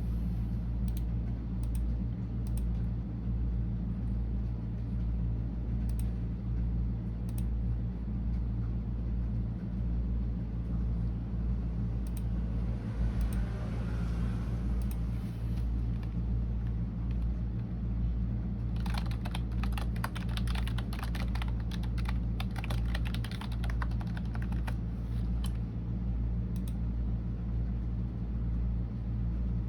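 Computer keyboard typing: scattered single keystrokes, then a fast run of typing lasting about six seconds, two-thirds of the way through. A steady low hum sits underneath.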